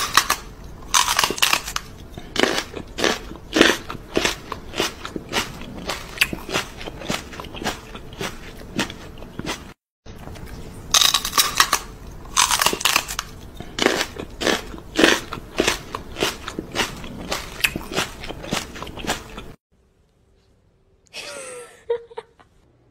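A person chewing crunchy food right at the microphone: loud, irregular crunching bites in quick succession. There is a brief break about ten seconds in, and the crunching stops a few seconds before the end.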